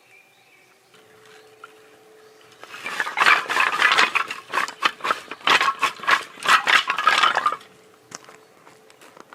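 Cooking gear or dishes being handled: a dense run of clattering and scraping for about five seconds, starting near three seconds in and stopping abruptly.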